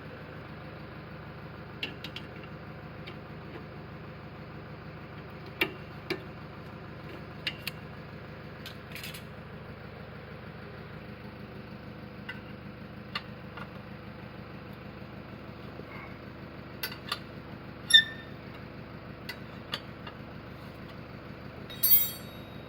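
Suzuki Wagon R engine running steadily, with scattered sharp metallic clicks and knocks over it, the loudest two near the end.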